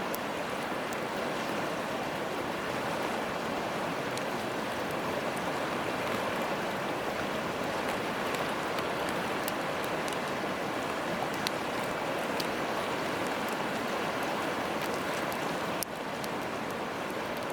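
Steady rush of a river flowing, with faint, sparse crackles from a wood campfire.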